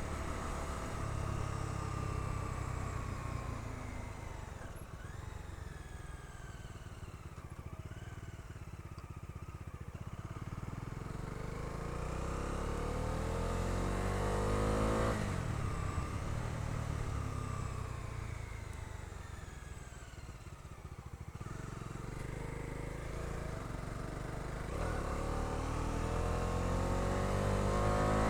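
Bajaj Dominar 250's single-cylinder engine pulling the bike with a passenger aboard. The revs climb to a gear change about halfway, fall away as the throttle eases, then climb again under acceleration near the end.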